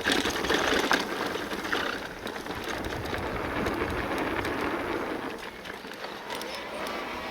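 Full-suspension electric mountain bike descending a dirt and gravel trail: tyres crunching over the ground and the bike rattling and knocking over bumps, busiest in the first two seconds and smoother after that.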